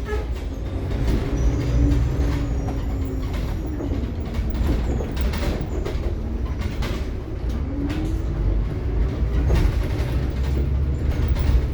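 Cabin noise inside a Scania K360IB bus under way: a heavy, steady low rumble from engine and road, with frequent knocks and rattles from the body and fittings. The engine note rises and falls as the bus pulls away and changes speed, rising again about eight seconds in.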